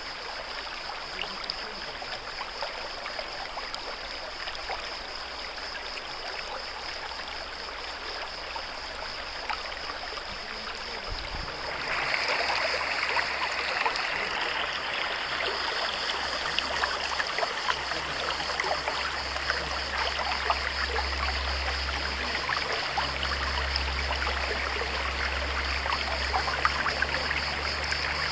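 Natural stream running over rocks, a steady rushing trickle that becomes louder and brighter about twelve seconds in.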